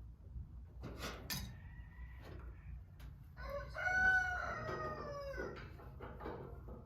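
A rooster crowing once in the background: one long call of about two seconds that falls slightly in pitch, starting about halfway through. Two sharp clicks come about a second in.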